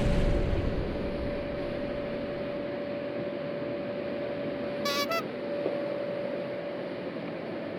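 Panasonic NA-FA100H3 front-loading washing machine running steadily after its drum bearing has been replaced, a constant hum with one steady tone. A brief high, broken tone sounds about five seconds in.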